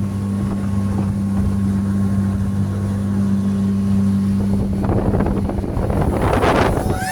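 Speedboat engine running at a steady pitch, with wind noise on the microphone and louder rushes of noise about five and six seconds in.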